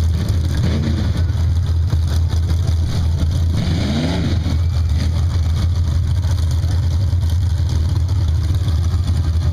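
Chevy small-block V8 of a two-wheel-drive mud dragster idling with a steady, loud rumble, the throttle blipped twice: a small rev about a second in and a bigger rev up and back down around four seconds in.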